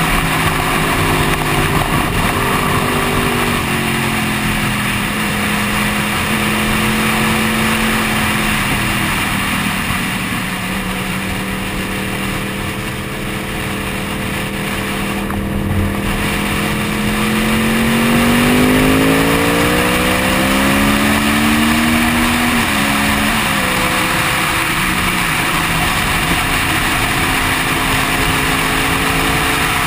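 Sport motorcycle engine under heavy wind noise on a helmet-mounted microphone. The engine note falls as the bike slows, holds steady through the middle, then rises as it accelerates, with a couple of quick gear changes about two-thirds of the way in.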